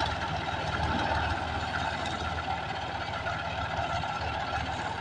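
Tractor's diesel engine idling steadily with an even, knocking beat.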